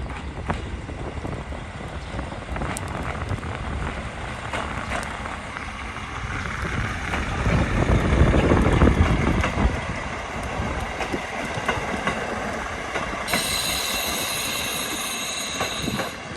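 KiHa 40 diesel railcar running into a station, its engine and wheels rumbling over the rails with scattered clicks, loudest about eight seconds in. Near the end a high squeal of several tones sounds for about three seconds as the train slows.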